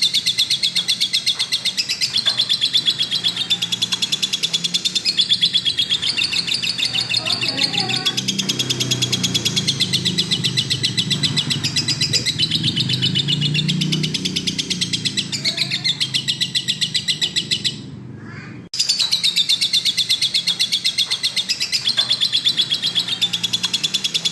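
Lovebird singing a long, fast chattering song of rapidly repeated high chirps. It breaks off abruptly about three-quarters of the way through and starts again a second later.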